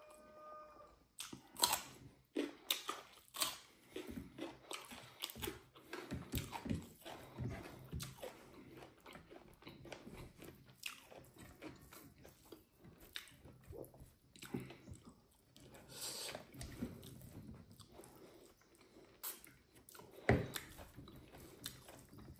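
A person chewing and biting mouthfuls of fried pork and rice close to the microphone, with irregular wet smacks and crunches.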